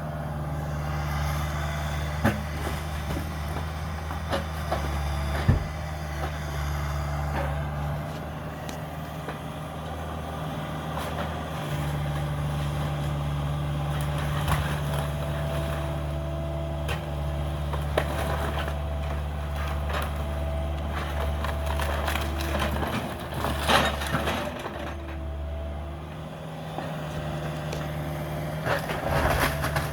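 Caterpillar 305 mini excavator's diesel engine running steadily, with scattered sharp cracks and knocks of wood and debris being broken in demolition.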